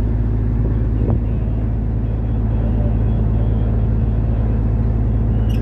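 Wooden tugboat's diesel engine running steadily under load while towing a barge, a constant low drone.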